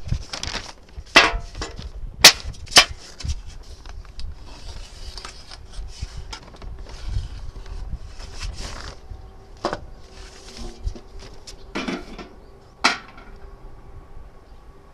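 An empty metal cookie tin being handled and worked by hand: irregular sharp knocks and clanks with a faint metallic ring, the loudest a few in the first three seconds and one near the end.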